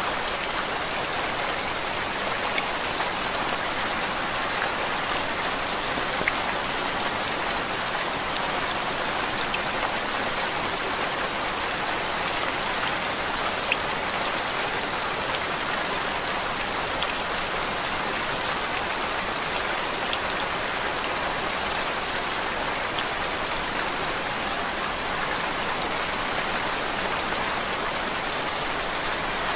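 Steady rain falling as an even hiss, with scattered faint drop ticks.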